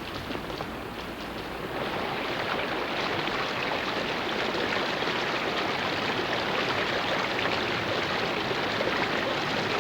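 Heavy tropical rain and running water: a steady rush of water that gets louder and fuller about two seconds in.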